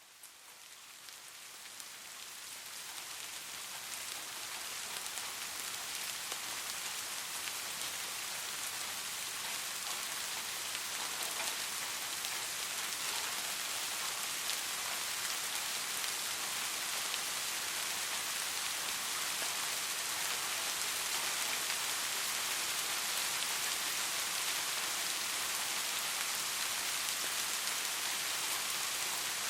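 Steady rain falling, a dense hiss of many drops that fades in over the first several seconds and then holds steady.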